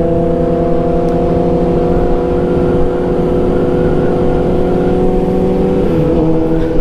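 Sportbike engine holding a steady speed under the rider, with wind noise on the helmet microphone; the engine note drops slightly about six seconds in.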